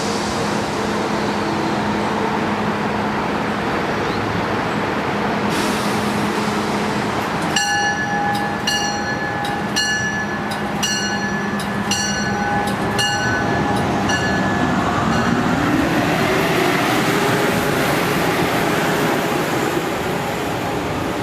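Amtrak Northeast Regional train pulling out of a station: steady running noise with a low hum. For about six seconds in the middle, a ringing tone repeats about one and a half times a second, and then a whine rises in pitch as the train gathers speed.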